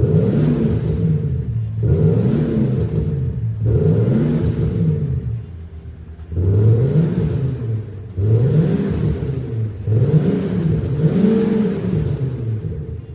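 BMW X5 revved in repeated blips, about one every two seconds, through an Xhaust active sound system that plays a synthetic V8-style exhaust note; the pitch rises and falls with each blip.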